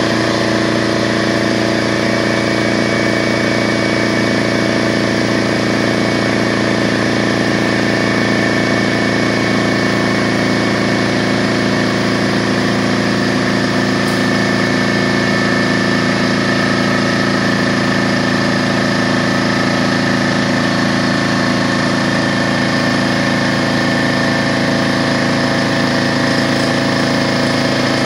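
DeWalt 4.5-gallon air compressor running steadily, its motor and pump charging the tank as the pressure builds, the sound of it working normally.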